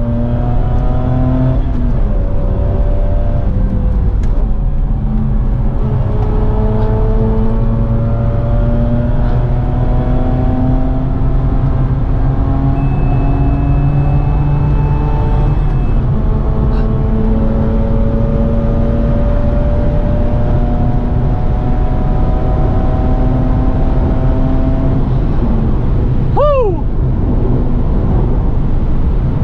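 Mazda RX-8's two-rotor Renesis rotary engine pulling hard, heard from inside the cabin over heavy road and wind noise. Its pitch climbs slowly in long pulls and steps down several times at gear changes, with one sharp fall in revs near the end.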